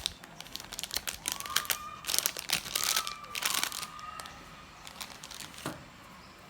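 Plastic packaging crinkling and crackling as a set of blending stumps is handled and unpacked, dying away after about four seconds.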